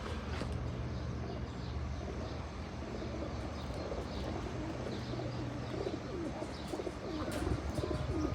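Domestic pigeons cooing softly and repeatedly, the coos growing more frequent in the second half, with faint high chirps and a low steady hum underneath.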